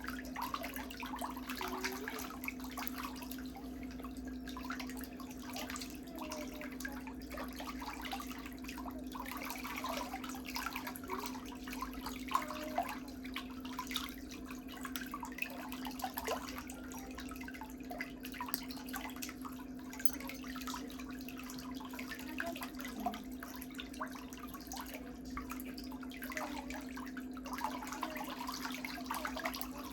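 Toenails being worked on with small nail tools: a busy stream of faint scrapes and ticks, over a steady low hum.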